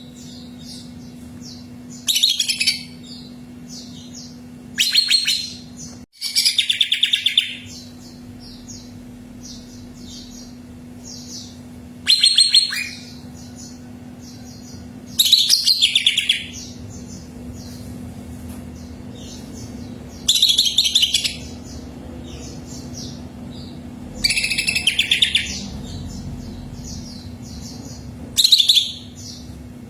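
Cucak ijo (green leafbird) singing in loud, high, rapid phrases of about a second each, every three to five seconds. Softer quick chirps fill the gaps, over a faint steady hum.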